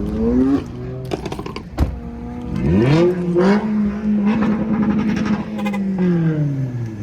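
Car engine revving: the pitch climbs about three seconds in, holds steady at higher revs for about two seconds, then falls back near the end. A single sharp knock about two seconds in.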